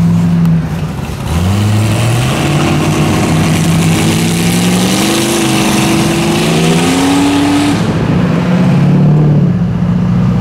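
Car engine accelerating: its pitch climbs for about six seconds, then drops back near the end to a steady cruising note.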